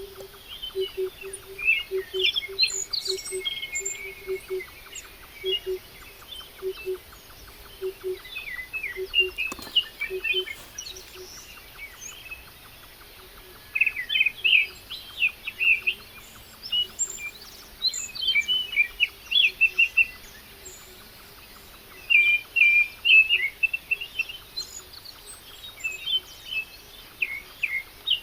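Several small birds chirping and singing in bursts of quick high notes. A low note repeats steadily two to three times a second for the first ten seconds or so, then fades out.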